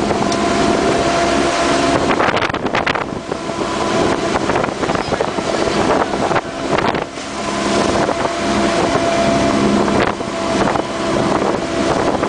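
Motorboat engine running steadily under way, with strong wind rushing over the microphone in a sudden squall.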